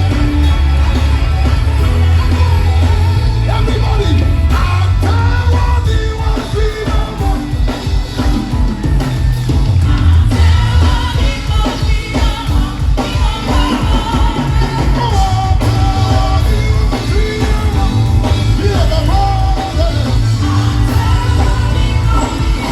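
Live gospel worship music: a band with heavy bass and a steady drum beat, with a lead voice singing over it.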